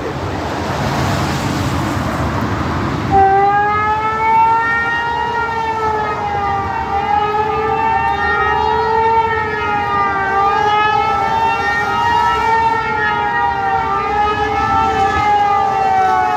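Tornado warning siren sounding a loud wavering tone that slowly rises and falls, starting about three seconds in after a few seconds of steady rushing background noise.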